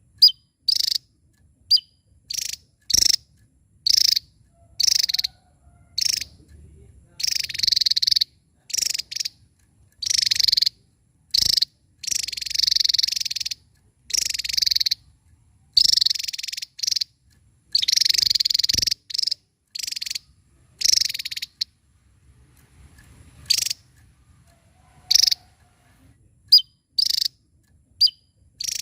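Javan tesia singing: short high-pitched notes roughly once a second, broken up by several longer phrases of one to two seconds.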